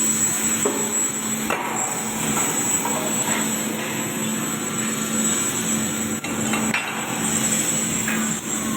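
Hammering, several knocks among busy work noise, over a steady low hum.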